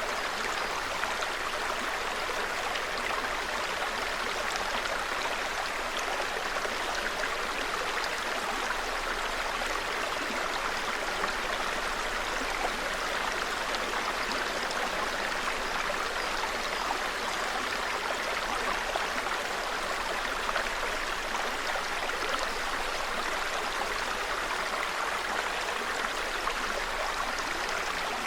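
Small forest stream (seseragi) babbling steadily, an even rush of running water that does not change.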